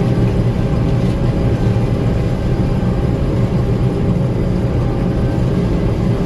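Gleaner M2 combine running with a steady, unchanging low engine and machinery drone.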